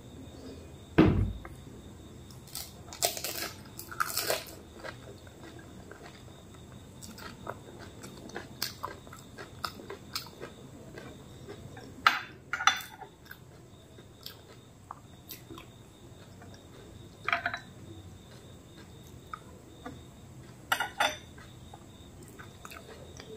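Crisp phuchka (pani puri) shells crunching as they are bitten and chewed, in short bursts every few seconds, with a spoon clinking in a glass bowl. A dull thump about a second in is the loudest sound.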